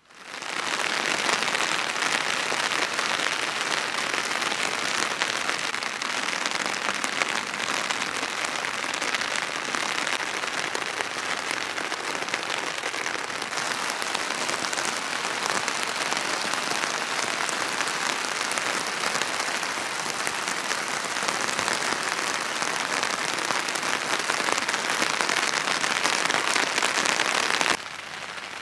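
Steady rain falling: a dense, even hiss that fades up quickly at the start and drops away sharply near the end.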